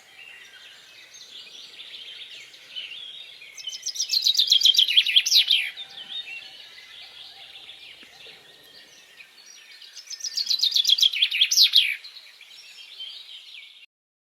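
Songbirds twittering continuously, with two loud, rapid trills of quickly repeated downward-sweeping notes, each lasting about two seconds. The recording cuts off abruptly near the end.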